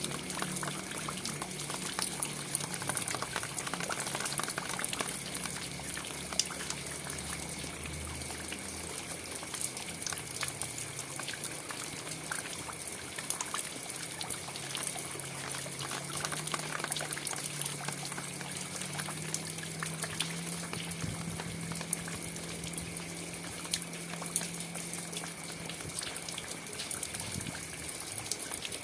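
Steady rain falling, a constant hiss dotted with many small drop ticks. Under it runs a low hum that wavers in pitch.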